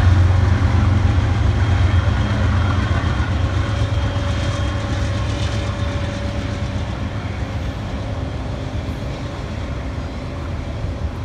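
Freight train of autorack cars rolling past, a steady rumble of wheels on rails that slowly fades.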